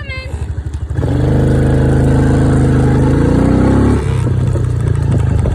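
Dirt bike engine ticking over with a pulsing beat, then revving up about a second in, its pitch climbing for about three seconds before it eases off.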